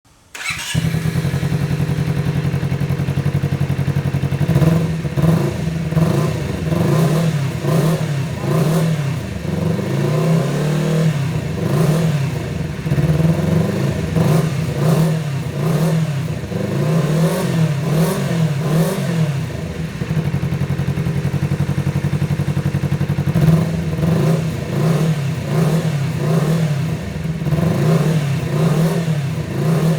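Honda CBR250RR motorcycle engine breathing through a Protech aftermarket racing exhaust, idling steadily, then revved again and again in quick blips that rise and fall back to idle. The revving pauses for a few seconds of steady idle past the middle, then resumes.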